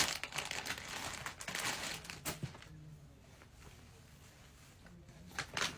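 Packaging crinkling and rustling as it is handled and opened, densest for the first couple of seconds, then quieter with a few small rustles near the end.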